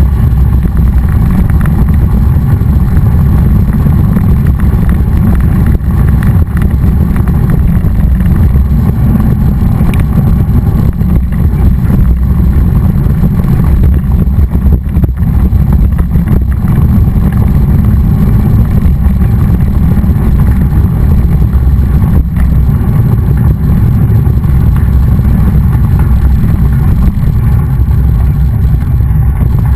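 Steady, loud wind rumble buffeting the microphone of a camera riding along on a moving mountain bike.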